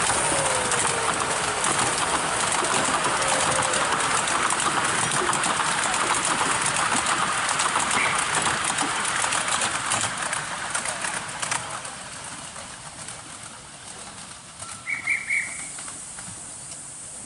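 Miniature steam railway train rolling on the track: a steady hiss with rapid clicking of wheels over the rails, dying away after about eleven seconds. A brief high chirp sounds near the end.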